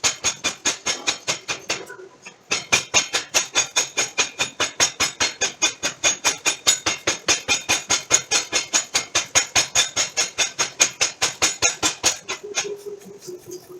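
Mechanical forging power hammer striking steel in rapid, even blows, about five a second, with a short break about two seconds in. The blows stop near the end, leaving a steady hum.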